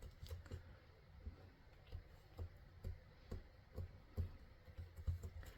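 Light, irregular taps and clicks, about two a second, from hands working polymer clay and tools against a work surface.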